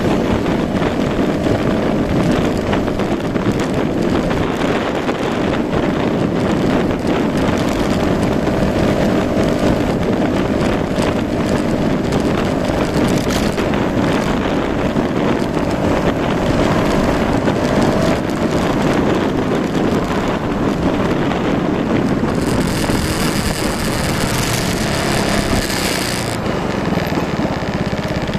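Yamaha Majesty S 155 scooter's single-cylinder engine running under way, mixed with wind buffeting the microphone. Near the end a hiss rises over it for a few seconds, then the sound settles lower.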